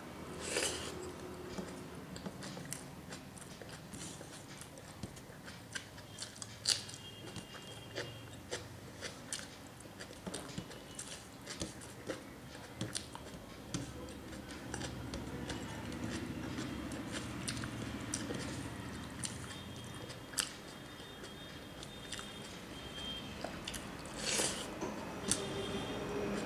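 Chewing of a mouthful of rice and fish, with many short wet mouth clicks and smacks as she eats with her fingers, and the light scrape of fingers gathering rice on a steel plate.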